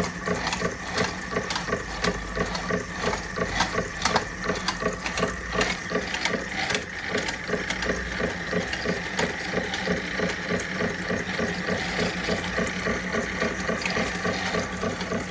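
Empire B42 toy steam engine running at speed and driving Wilesco fairground toys through spring belts. Its running and the toys' moving parts make a fast, even mechanical clatter over a steady low hum.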